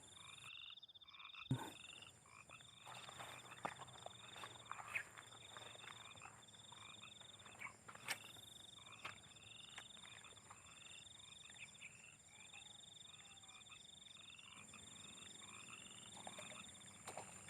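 Faint frog chorus: short pulsed calls repeating about once a second, over a steady high-pitched drone, with a few soft clicks.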